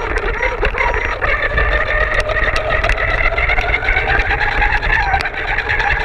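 Electric RC car motor whining steadily as the car runs, its pitch drifting slowly up and down over a low rumble, with a few small clicks.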